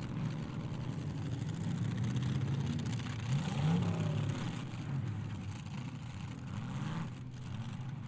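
Engines of several demolition derby cars revving, their pitch rising and falling over and over as the cars accelerate and back off.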